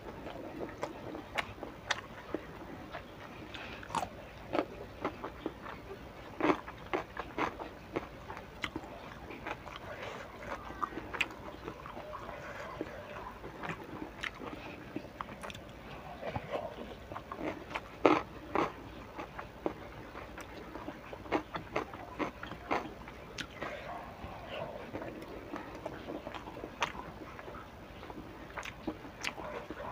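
Close-up eating sounds of a person chewing rice and fried tempeh with sambal: irregular sharp mouth clicks and bites over soft chewing, the loudest about eighteen seconds in.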